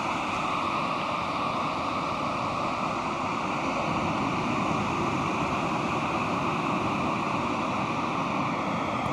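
Pacific Ocean surf breaking on a sandy beach, a steady wash of waves with no single break standing out.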